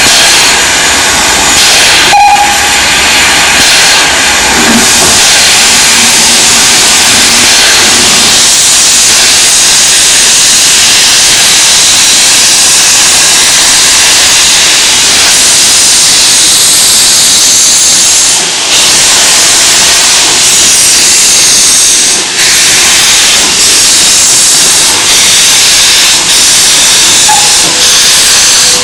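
Steam hissing loudly and steadily from a small steam locomotive, with no clear break.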